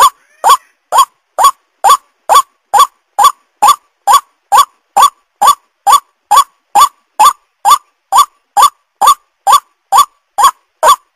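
White-breasted waterhen (ruak-ruak) calling: one short rising note, repeated very evenly about twice a second, used as a bird-lure call.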